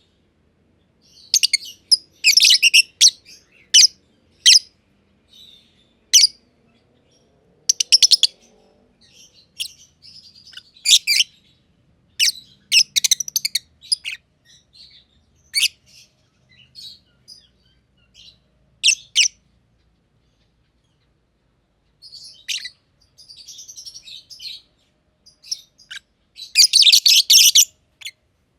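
Masked lovebirds (Agapornis personatus) chirping: short, shrill, high-pitched chirps in irregular clusters, with a pause of a few seconds about two-thirds through and a dense run of rapid chirps near the end.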